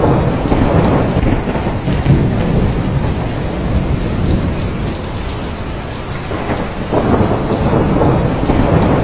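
Thunderstorm: steady heavy rain with rolling thunder rumbling throughout, swelling louder at the start and again from about two-thirds of the way in.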